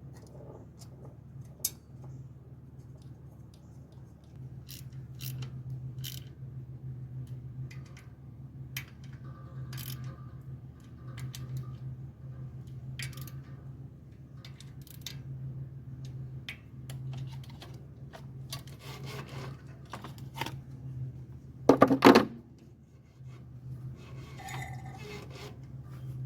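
Metal hand tools and engine hardware being handled: scattered clicks and clinks, with one loud metallic clatter about 22 seconds in, over a steady low hum.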